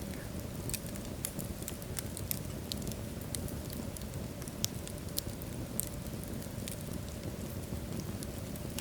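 Wood fire of burning logs in a fireplace crackling, with a steady low roar of flames under irregular sharp pops and snaps.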